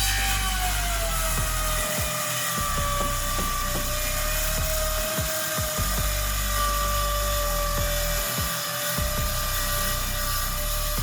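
Power tool motor running steadily with a high whine, its pitch sagging slightly in the first second as it takes load, then holding, cutting off abruptly near the end; background music underneath.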